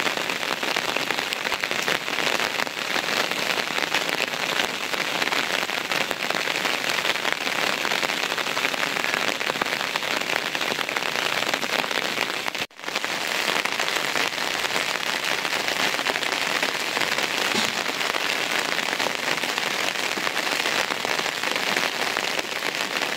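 Steady rain falling, a dense, even hiss with fine crackle. It drops out for a moment about halfway through, then carries on just the same.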